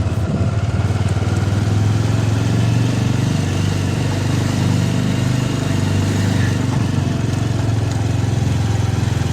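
Motorcycle engine running at a steady speed while riding, a low even hum with no change in pitch.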